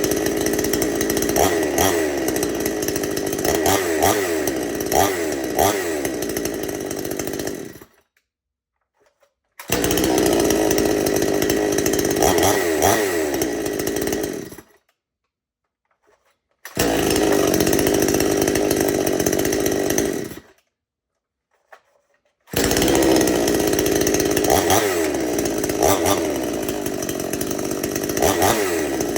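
Gasoline two-stroke chainsaw running and being revved up and down. The sound breaks off abruptly into silence three times, each time for about two seconds.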